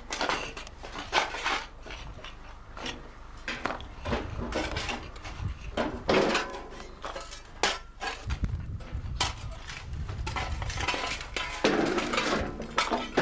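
Irregular clinking and knocking of hard objects striking one another, metal and stone or wood, with a few louder knocks and brief ringing spells, typical of hand-tool work on a restoration site.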